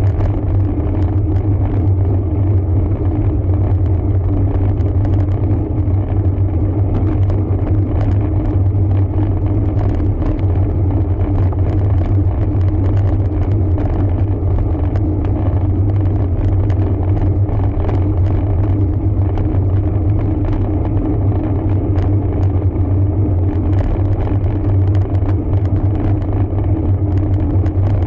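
Steady low rumble of wind and tyre noise picked up by a camera on a road bicycle being ridden, with scattered light clicks and rattles.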